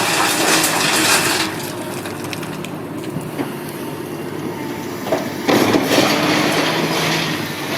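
Heavy diesel machinery running steadily under a loud grinding, crushing rattle of material, heavy at the start, easing off after about a second and a half, and returning about five and a half seconds in.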